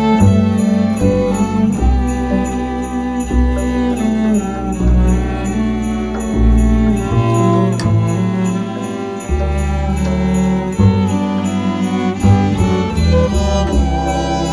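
A small string ensemble playing a slow carol melody over sustained low bass notes that change every second or so. Behind the strings runs a faint high ticking that keeps a steady beat, about two to three ticks a second.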